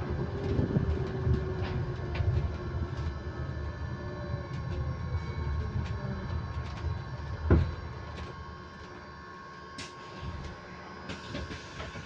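Inside a moving electric bus: a steady, constant-pitch tone rings over the low road rumble and small rattles. The drivetrain's whine glides in pitch in the first few seconds, a sharp knock comes about seven and a half seconds in, and the rumble then drops away, leaving the steady tone.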